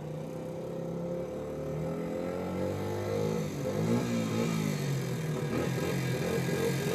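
A small dirt bike engine running, its pitch rising and falling as it is revved, growing louder over the first few seconds.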